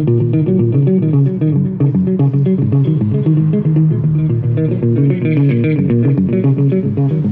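Bass guitar playing a quick run of short plucked notes, with guitar music around it.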